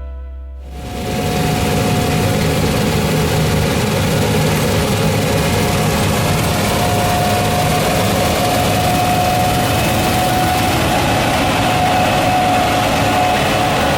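Heavy diesel harvest machinery running steadily: a constant engine drone with a steady hum above it.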